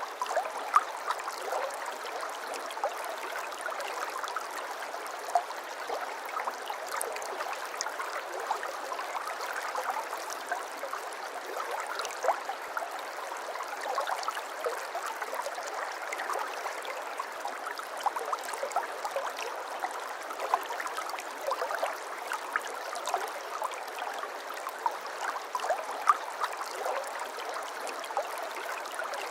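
Shallow stream water flowing and babbling steadily, a continuous trickling rush dotted with small splashes and gurgles.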